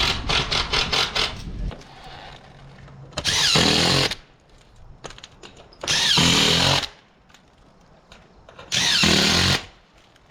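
Power drill running in short bursts under a second long, about every three seconds, its pitch dropping during each burst. A rapid run of clicks comes in the first second or so.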